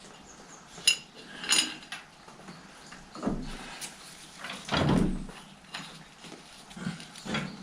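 Scattered metallic clinks and clunks from parts being handled and fitted on a tractor's final drive: two bright ringing clinks, then a few duller knocks, the loudest about five seconds in.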